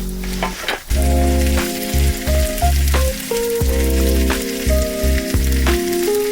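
Food frying with a steady sizzle and scattered crackles, under background music with a melody and pulsing bass.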